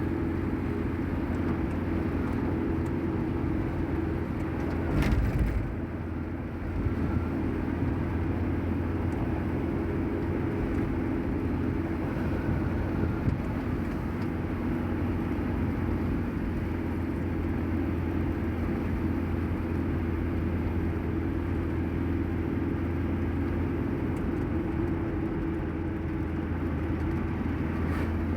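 Steady low rumble of a running vehicle, with a brief louder bump about five seconds in.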